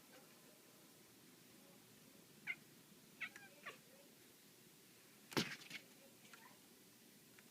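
House cat making short meows, three in quick succession a few seconds in, while chasing a laser dot. About five seconds in, a single sharp knock is the loudest sound, followed by a few small clicks.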